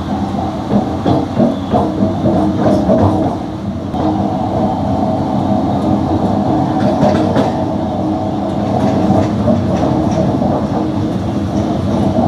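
MEMU electric passenger train running on the line: a steady rumble of wheels on rail, with a run of clacks about twice a second over rail joints in the first few seconds.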